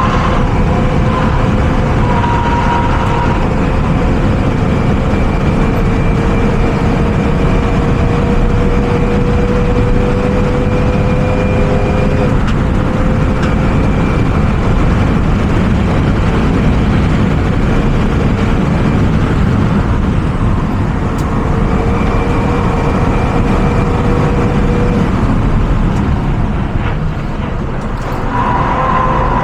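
Renault Mégane RS engine running at speed under heavy road and wind noise. Its note climbs slowly, drops back about twelve seconds in, then climbs again.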